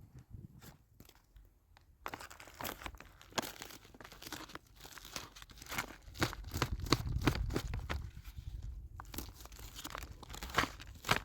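Wild plants being picked by hand, stems and leaves tearing and snapping. After a quiet first two seconds, an irregular run of crackling tears and snaps begins.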